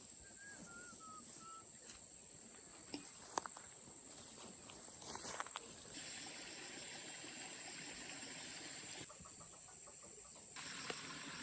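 A rooster crowing faintly: one wavering call that falls a little in pitch, near the start. A few sharp clicks follow later, over a steady faint hiss.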